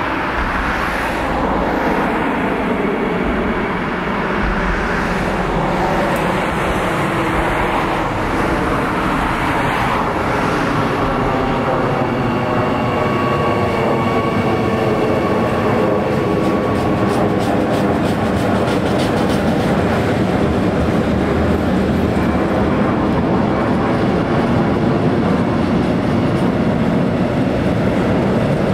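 Electric-hauled freight train of tank wagons approaching and rolling past: a steady rumble of steel wheels on rail that grows slowly louder, with a run of rapid clicks about halfway through as the wagons pass.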